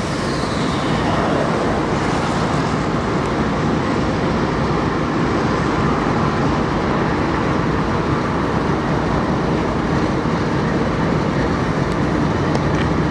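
Train rolling past with a steady, loud rumble of wheels on the rails.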